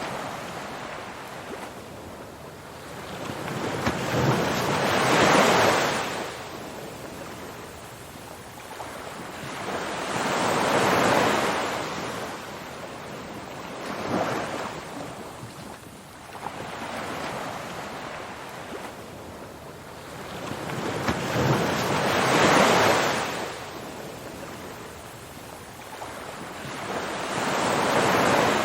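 Ocean waves washing onto a shore: a steady hiss of surf that swells and falls away five times, each wave a few seconds long.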